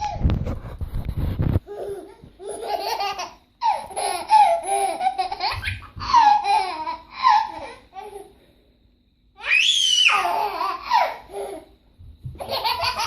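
Baby laughing in repeated pulsing bursts, with a high rising squeal about ten seconds in. A low rumbling noise fills the first second and a half.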